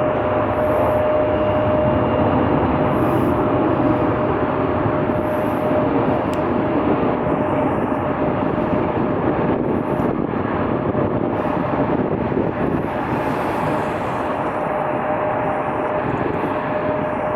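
Jet airliner engine noise: a steady, loud rush with a constant hum running through it.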